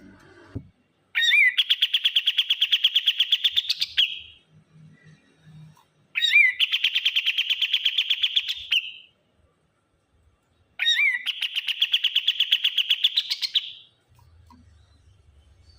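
A kapas tembak bird singing its rapid 'shooting' song: three bursts of about three seconds each, every burst a fast run of repeated high notes, about nine a second, opening with a short rising note.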